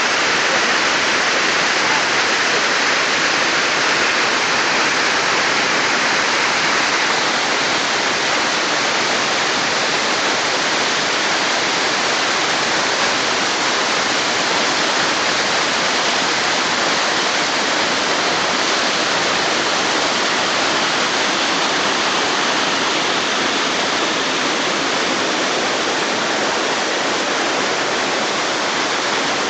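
Tiered waterfall rushing steadily, a constant hiss of falling water.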